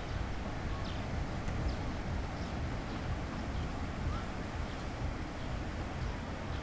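Steady wash of sea surf on a beach, heavy in the lows and mixed with wind on the microphone, with a few faint, short high calls from further off.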